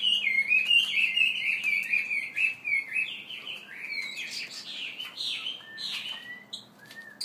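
A songbird singing a fast, unbroken run of varied chirps and warbled notes, thinning out to a few scattered notes near the end.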